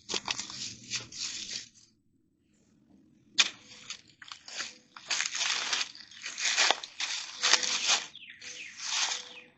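Dead brush and sticks crunching and snapping in irregular bursts as debris is pulled out of a clogged pond overflow, with one sharp snap about three and a half seconds in.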